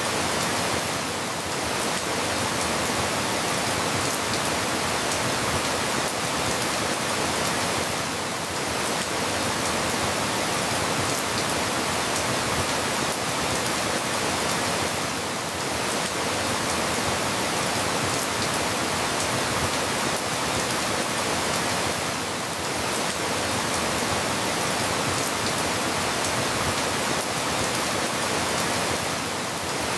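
Steady rain falling, an even hiss with a slight dip in level about every seven seconds.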